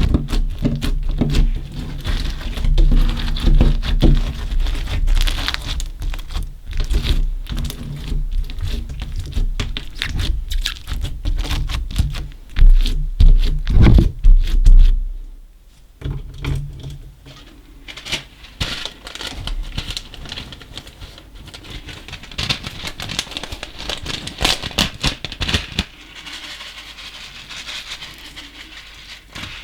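Slime mixed with small coloured particles being squished and kneaded by hand, with dense crackling and popping. It is louder and heavier for about the first fifteen seconds, then softer and lighter.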